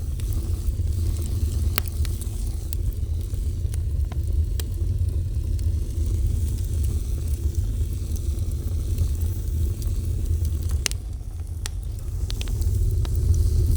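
A fire burning, with a steady low rumble under scattered sharp crackles and pops at irregular intervals, a few of them close together near the end.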